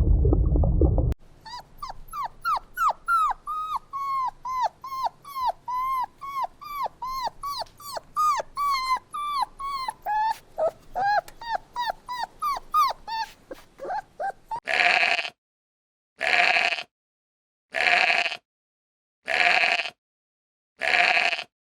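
Animal calls: a long run of quick, short yelps that fall in pitch, about three a second, followed near the end by five harsh, noisy calls about a second and a half apart.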